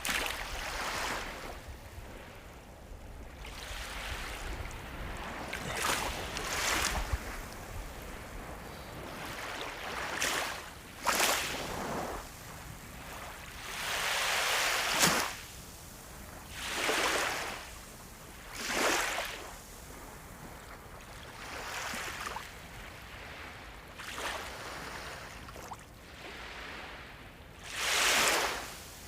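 Sea waves breaking and washing up the shore, a hissing surge every two to four seconds. The longest and loudest swells come about halfway through and near the end.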